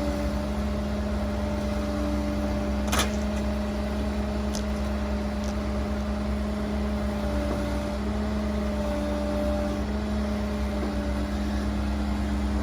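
An engine running steadily at constant speed, a low hum with a few held tones. A single sharp knock comes about three seconds in, with a couple of fainter ticks after it.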